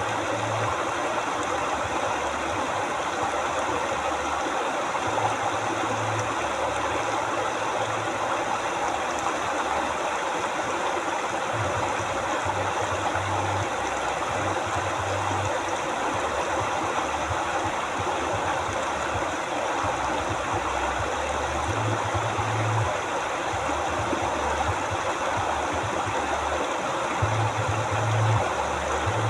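Steady rush of a river's flowing water, with a low rumble underneath that comes and goes every few seconds.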